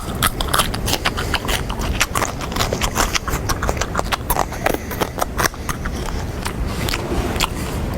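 Loud crunching and chewing of a snack: a rapid, irregular run of crisp clicks that thins out after about five and a half seconds.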